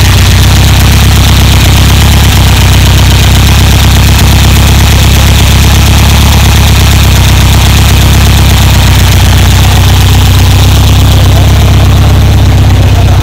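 Volkswagen Beetle's air-cooled flat-four engine with twin carburettors, idling steadily, very loud and overdriving the microphone.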